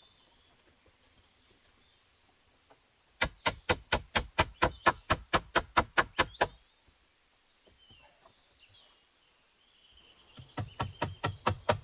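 Two runs of rapid, evenly spaced sharp knocks, about five blows a second: one lasting about three seconds, the other starting near the end. Faint bird chirps can be heard between them.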